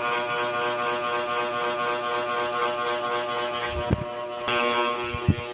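Small electric motor of a mini ceiling fan running with a steady hum. A few dull knocks come about four seconds in and several more near the end.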